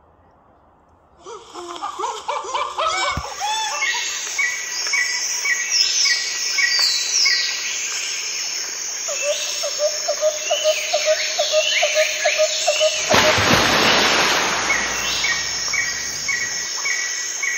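Birds chirping and calling, with repeating short call phrases layered over one another, starting after about a second of near silence. A rushing noise swells for a couple of seconds late on.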